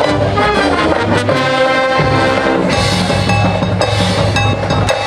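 High school marching band playing: brass chords with drums and percussion underneath, loud and continuous.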